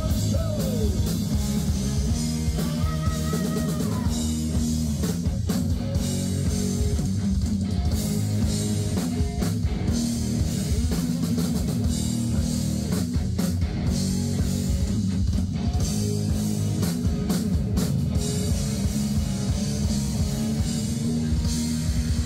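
Live rock band playing: drum kit and guitar over a steady beat.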